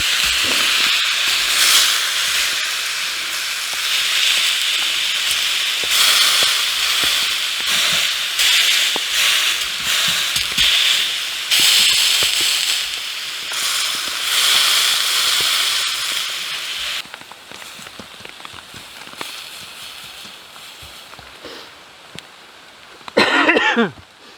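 Steak sizzling loudly in a frying pan, with crackling through the hiss. About two-thirds of the way through, the sizzle drops away to a faint crackle, and near the end there is a short sound falling in pitch.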